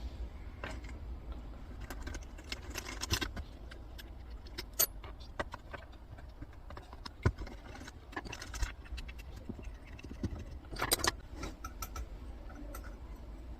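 Screws being backed out of an old electricity meter's front cover with a screwdriver: scattered small metallic clicks and clinks, with a brief burst of rattling about eleven seconds in, over a low steady hum.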